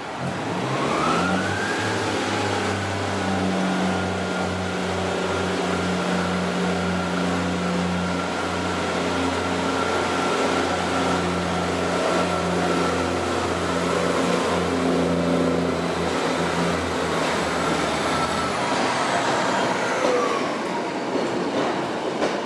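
Diesel train running with an engine hum and a high whine that rises about a second in, holds steady, then falls away near the end.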